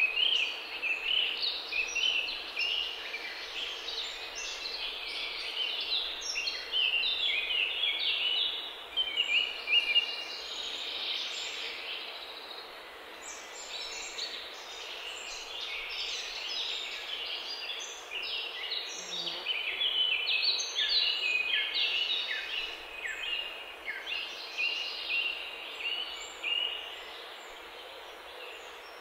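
Busy outdoor birdsong: many short chirps and trills overlapping without pause, with a faint steady low hum underneath.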